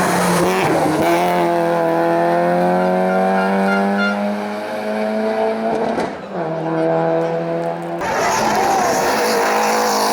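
Race car engine accelerating hard up a hillclimb course, its pitch climbing steadily for several seconds, with a sharp break about six seconds in as it changes gear. About eight seconds in the sound changes abruptly to a rougher, noisier engine note.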